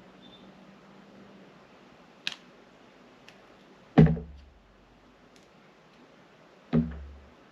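Glycerin soap being cut with a knife: a light click about two seconds in, then two heavier thuds with a deep low end, about four and nearly seven seconds in.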